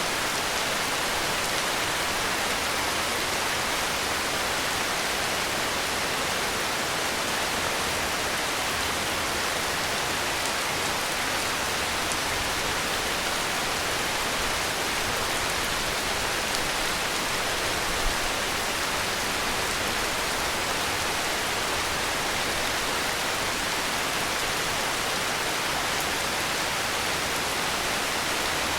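Heavy rain falling in a steady, even hiss, with one slightly sharper drop-like tick a little past the middle.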